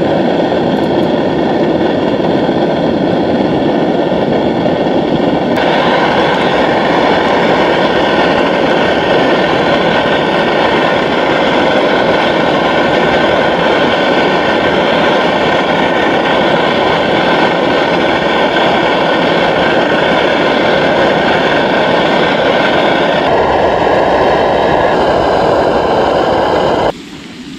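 Thin-cut potato fries shallow-frying in hot oil in a pan: a loud, steady sizzle that changes abruptly a couple of times and cuts off near the end.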